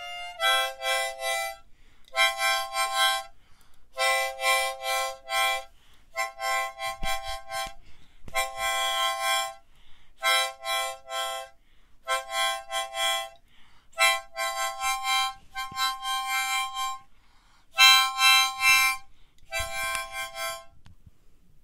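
Solo harmonica playing a tune in short phrases with brief breaks between them, stopping just before the end.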